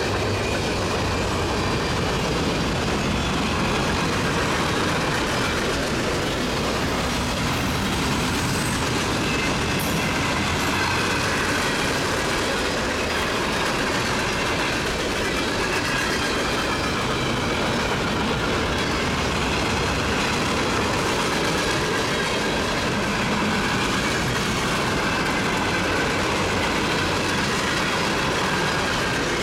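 A train's cars rolling steadily past on the rails, with a faint, wavering high wheel squeal over the rumble.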